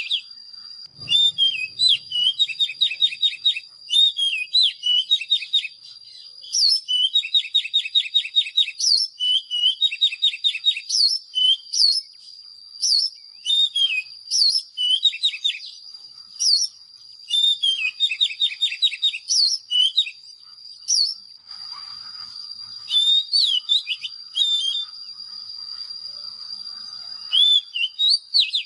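Oriental magpie-robin singing: repeated phrases of fast trills and sweeping whistled notes with short pauses between them, over a steady high-pitched whine.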